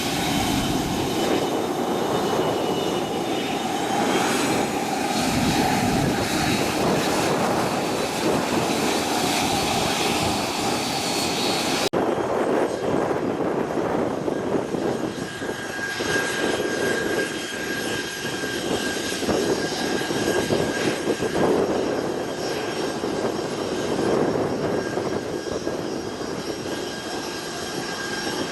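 Aircraft turbine engines running steadily with a high whine that rises slightly about four seconds in; the sound changes abruptly about twelve seconds in to a steadier whine.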